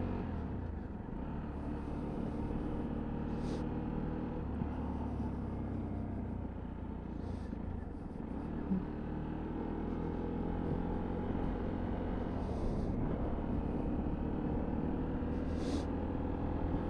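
Sinnis Terrain 125cc motorcycle engine running steadily while riding, its note shifting a little with the revs, with brief hisses now and then.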